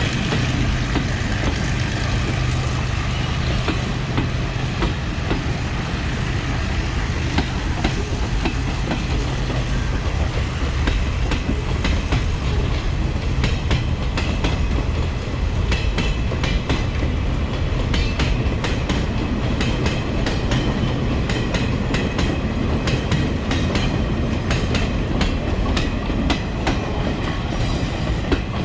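A freight train hauled by EMD diesel-electric locomotives pulling out and rolling past. A steady low diesel hum comes first. Then the wheels clack over the rail joints, the clacks coming more and more often from about twelve seconds in as the train picks up speed.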